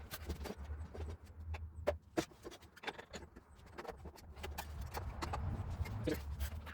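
Irregular light knocks and clicks of metal parts being handled as a motorcycle wheel and its greased axle are worked back into place, with a steady low hum underneath.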